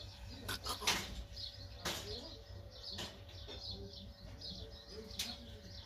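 Small birds chirping over and over, with a few sharp clicks, the loudest about a second in and again near two seconds.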